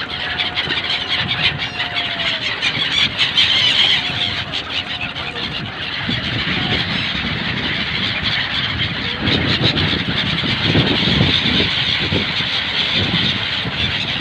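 A large flock of gulls, the winter 'Siberian birds' of the Ganga, giving many overlapping shrill squealing calls, with a low rumble underneath.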